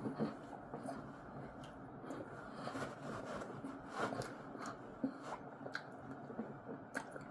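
Quiet mouth sounds of chewing a cookie and ice cream, with scattered small clicks and scrapes of a fork.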